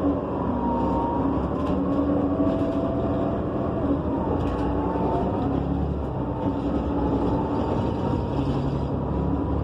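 2015 Gillig BRT Plus transit bus under way, heard from inside: its Cummins Westport ISL G natural-gas engine and Allison B300R transmission running with a steady hum and whining tones that slowly rise and fall in pitch.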